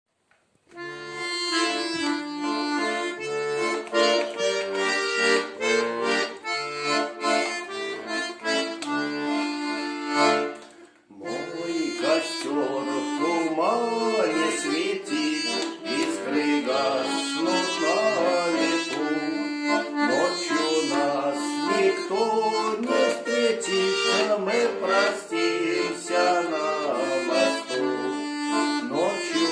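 Accordion playing a Russian romance tune, with steady oom-pah bass notes under sustained chords. The playing breaks off briefly about eleven seconds in, then carries on with a livelier, wavering melody.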